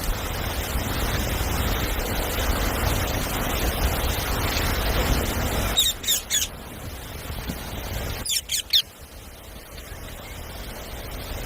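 A parrot gives a few short, sharp screeches, a pair about six seconds in and another pair about two seconds later, over a steady background hiss that drops away when they start.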